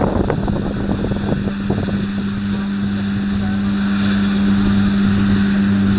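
New Holland T7.315 tractor's 6.7-litre six-cylinder diesel running under load, driving a Kuhn triple disc mower conditioner, with a steady hum and some crackling in the first couple of seconds.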